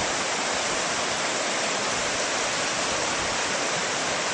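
Steady rushing of high floodwater from a river swollen by hurricane rain.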